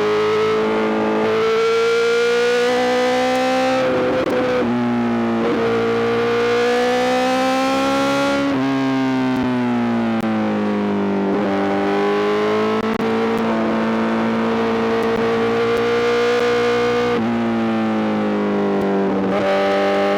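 Honda CBR1000RR-R SP's inline-four engine through a full Arrow GP exhaust, pulling under load with its pitch climbing, dropping briefly at about four and a half seconds and again near the end as gears are shifted up. In between it eases off for a few seconds, the pitch falling, before pulling again.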